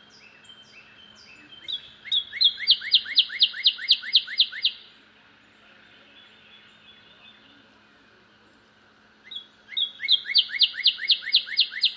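Northern cardinal singing: two phrases of rapid, down-slurred whistles, about five a second, the first starting about two seconds in and the second starting about nine seconds in.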